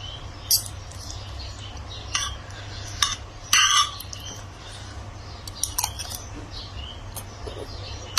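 Utensils clinking against plates and bowls during a meal: a handful of scattered sharp clicks, a few seconds apart.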